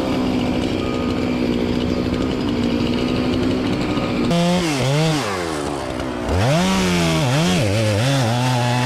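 Chainsaw running, first at a steady pitch, then from about four seconds in revving up and down repeatedly, its engine pitch swinging while it cuts wood, before settling near the end.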